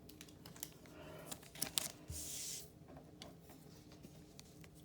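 Pokémon card being worked into a thin plastic penny sleeve: faint crinkling and light ticks of card and plastic, with a brief soft swish about two seconds in.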